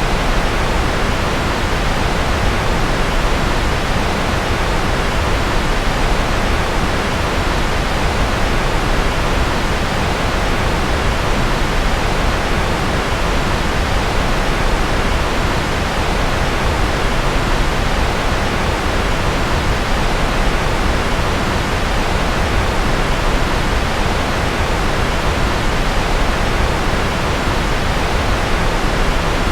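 Steady, unchanging rushing noise from a white-noise sleep track, spread evenly from a deep rumble up to a high hiss.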